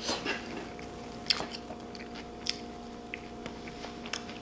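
Close-miked mouth sounds of chewing food, with wet clicks and smacks and two sharper bites, about a second and a half and two and a half seconds in.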